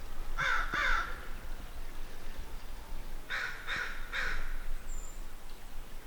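Bird calls: two in quick succession near the start, then three more about halfway through.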